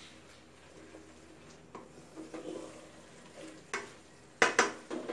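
Green curry paste sizzling as it fries in coconut cream in an aluminium pot, stirred with a wooden spatula that scrapes the pot bottom in short strokes. About four and a half seconds in come two louder, sharp knocks of the spatula on the pot.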